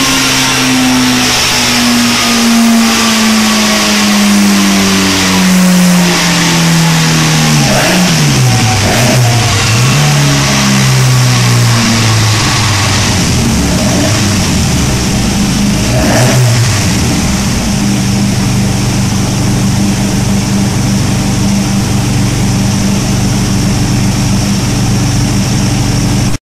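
Race-tuned Alfa Romeo 33 16v flat-four engine, on Jenvey individual throttle bodies, running on a rolling-road dyno. Its note falls steadily over about eight seconds as the revs come down, dips and recovers briefly, then holds a steady note for the last ten seconds or so.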